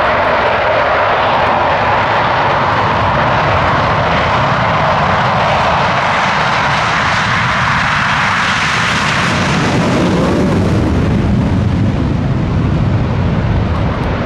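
Loud jet roar of Blue Angels F/A-18 Hornets flying past; about ten seconds in the roar loses its high hiss and drops to a lower rumble as the jets pass and move away.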